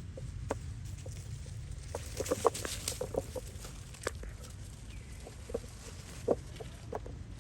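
Short, scattered animal calls over a steady low rumble, bunched together about two to three and a half seconds in.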